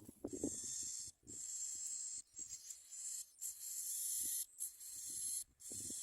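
High, hissy calls repeated in about six bursts of just under a second each, with brief gaps between: prinia nestlings begging in the nest, with faint rustling underneath.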